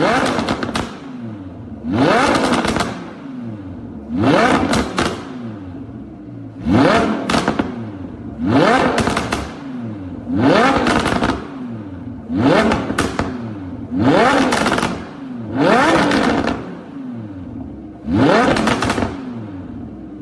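Car engine with a loud exhaust revved in short blips about every two seconds, about ten times. Each rev rises quickly in pitch, then drops back to idle with pops and crackles from the exhaust.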